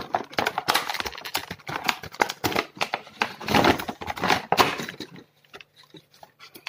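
Packaging being handled and opened: quick bursts of crinkling and rustling, which thin out to a few light clicks and taps near the end.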